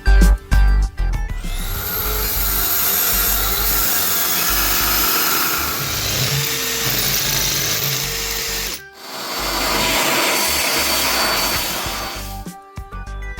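A power tool runs in two stretches, spinning up just after the start and stopping briefly about nine seconds in, as it works the shelf's wood or stone. Background guitar music plays at the beginning and again near the end.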